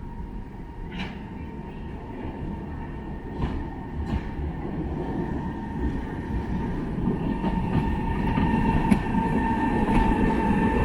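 Class 139 Parry People Mover railcar approaching, steadily growing louder, with a steady high whine over its running noise and a few sharp clicks from the wheels over rail joints.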